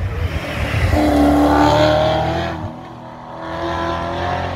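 Red Holden Commodore sedan's engine accelerating hard up the hill climb course, loud as it passes close by. The note drops away about three seconds in, then builds again as the car climbs further up the hill.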